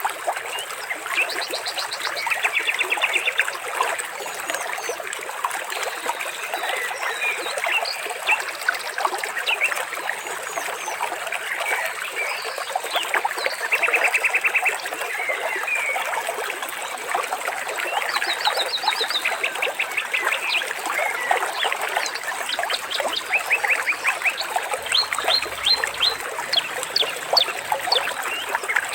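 Many birds chirping and giving short rapid trills over steadily trickling water.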